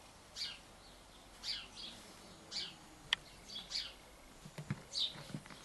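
A bird calling over and over: a short high chirp falling in pitch, often followed by a smaller second note, about once a second. A single sharp click comes about halfway, and a few low thumps come near the end.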